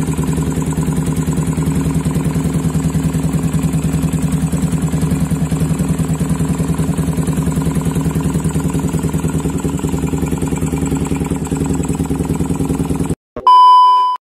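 Single-cylinder 150 cc motorcycle engine idling steadily through an aftermarket SRM racing muffler, with a fast even exhaust beat. It cuts off suddenly near the end, followed by a brief loud electronic beep.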